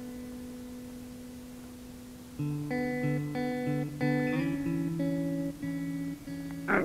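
Background music on acoustic guitar: a held chord fades out, then picked chords start again about two and a half seconds in, with a short louder stroke near the end.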